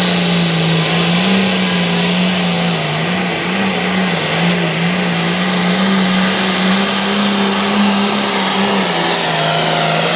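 Case IH limited pro stock pulling tractor's turbocharged diesel engine running at full throttle during a pull, loud and near-steady in pitch, wavering slightly as it works against the sled.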